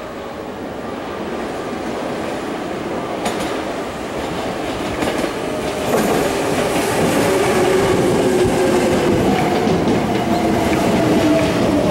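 Hankyu 8300 series electric train approaching and passing close by. Its running noise builds over the first six seconds as the front draws level, then holds loud, with a whine of several tones gliding slowly lower over the wheel and rail noise.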